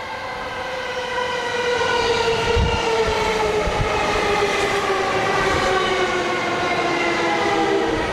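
Chūō-Sōbu local electric commuter train pulling into the platform, its traction motors whining in several tones that fall steadily in pitch as it brakes, getting louder in the first two seconds. A few low thumps come from the wheels around the middle.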